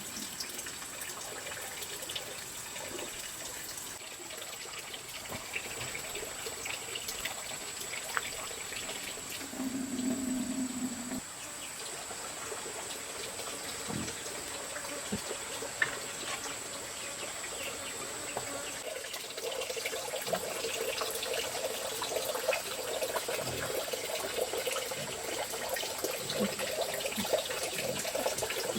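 Water trickling and splashing, with a thin steady high-pitched tone underneath; the water grows fuller and louder about two-thirds of the way in.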